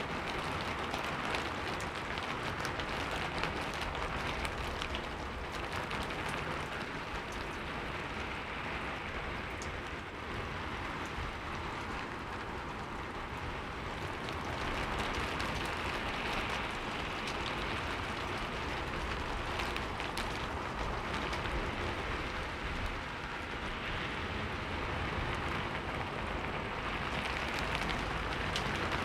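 Heavy rain falling steadily, a dense hiss with many small drop patters.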